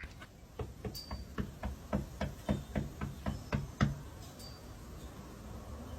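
A quick run of about a dozen knocks, roughly four a second, that stops about four seconds in.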